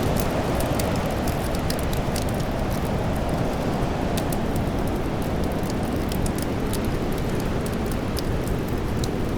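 Steady wind noise with a wood fire crackling over it in many small, irregular pops.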